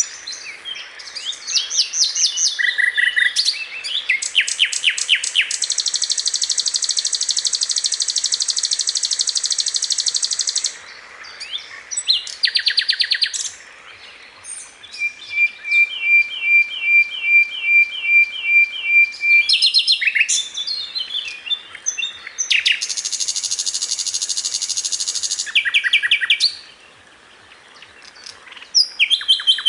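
Recorded song of a sikatan londo, a flycatcher kept as a tutor bird for songbirds. It sings varied high phrases: quick trills, two long high buzzing rattles, and a run of about a dozen evenly repeated notes.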